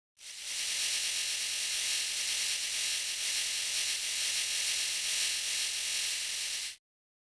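Washing machine running with a steady, even hiss that cuts in and cuts off abruptly.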